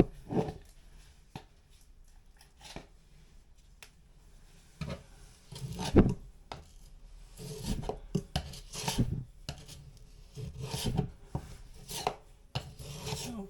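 Putty knife scraping and tapping as shrink-free spackle is spread onto a drywall patch: irregular scrapes and clicks, the loudest about six seconds in.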